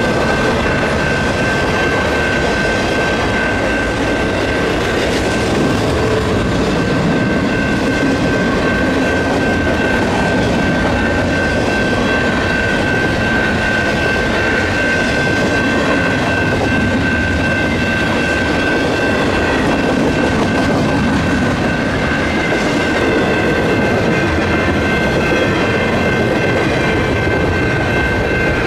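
Double-stack container cars of a freight train rolling past close by: a steady, loud rumble of wheels on rail with clickety-clack, under a steady high ringing tone.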